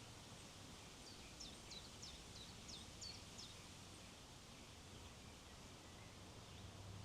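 Faint wind hiss over open country. A small songbird sings one quick phrase of about six high notes, each sliding downward, starting about a second in and ending after three and a half seconds.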